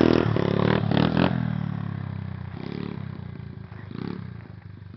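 Pit bike engine revving as the bike pulls away, fading steadily as it moves off, with a few sharp clacks in the first second or so.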